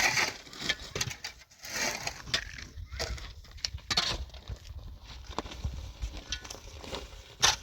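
Irregular knocking, clattering and crunching of hard objects being handled and moved, with a sharp knock near the end.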